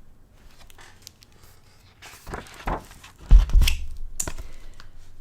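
Paper rustling and scraping as the pages of a picture book are turned, with a soft thump a little past three seconds in.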